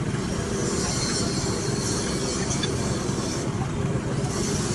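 Machinery running steadily with a low rumble, joined twice by a high hiss or squeal, as in metalworking.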